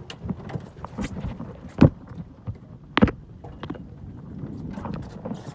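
Small sailboat's fittings knocking and creaking: scattered clunks, with two sharp knocks about two and three seconds in, over a low rumble.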